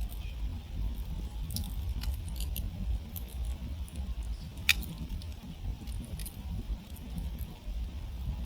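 Wood campfire crackling, with scattered small snaps and one sharper pop about halfway through, over a low steady rumble. The fire has burned down to settled flames and embers.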